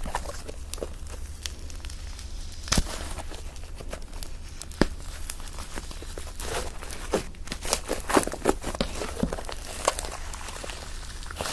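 Fluffy shaving-foam slime being squished and pulled: irregular sticky crackles and small clicking pops, with a few louder pops.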